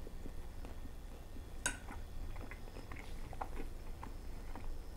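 A person chewing a mouthful of food close to a lapel microphone: soft, wet mouth clicks and smacks, with one sharper click a little under two seconds in.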